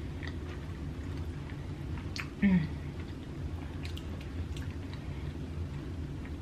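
Mouth chewing a forkful of soft stuffed baked potato with creamy crawfish sauce, with small wet mouth clicks throughout and one short, louder low sound about two and a half seconds in.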